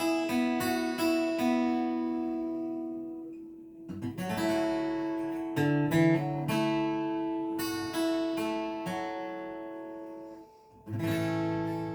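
Acoustic guitar playing, chords ringing out and slowly fading. There is a fresh strum about four seconds in and another near the end, after a short dip.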